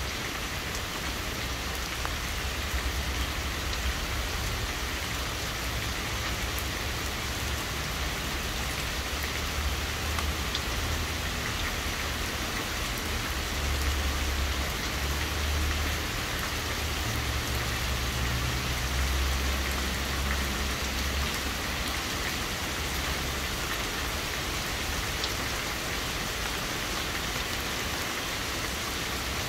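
Heavy rain falling steadily on pavement and lawns, an even hiss, with a low rumble underneath that swells and fades through the first two-thirds.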